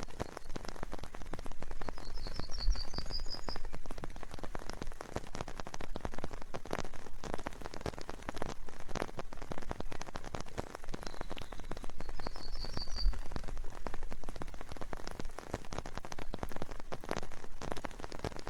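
Steady rain in a forest, with many separate drops pattering. A small bird gives a quick run of high notes twice, about two seconds in and again about twelve seconds in.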